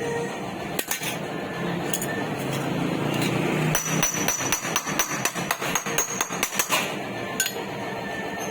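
Hammer beating the steel body panel of a Toyota Starlet under repair. A quick run of blows, about five a second for some three seconds, starts around the middle, with a few single knocks before and after.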